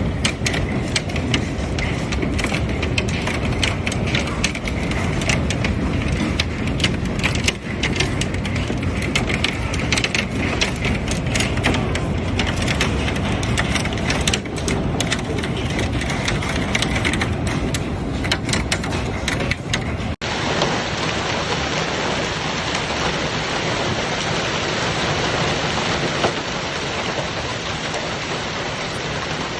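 Hailstorm: hailstones pelting down with many sharp, separate impacts over heavy rain. After an abrupt cut about two-thirds of the way through, steady heavy rain without the hail impacts.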